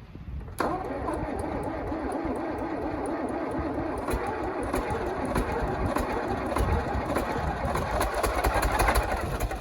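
International BTD6 crawler dozer's diesel engine being cold-started after preheating: about half a second in the starter cranks it and it begins firing, a rough, rapid knocking run that builds in loudness.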